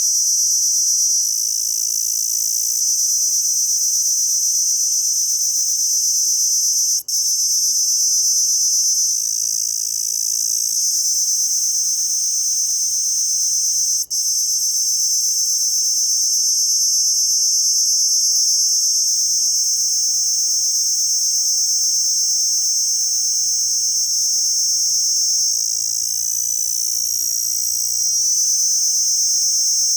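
A calling insect's loud, continuous high-pitched shrill, heard close up. It drops out for an instant twice, about seven and fourteen seconds in.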